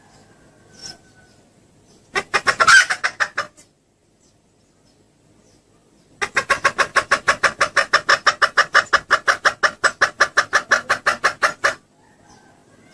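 Junglefowl hen clucking, recorded as a lure call to draw in cock birds: a short burst of fast clucks about two seconds in, then, after a pause, a long, even run of rapid clucks, about eight a second, lasting some five seconds.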